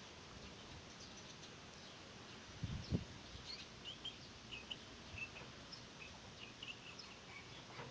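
Small birds chirping in short, scattered calls, with a dull thump about three seconds in.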